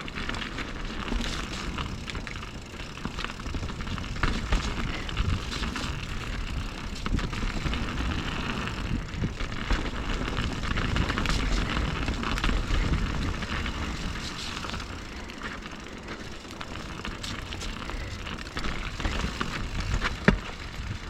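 Mountain bike riding down a rocky trail: tyres crunching and bumping over rock, the bike rattling with many sharp clicks, and a steady low rumble of wind and motion on the microphone.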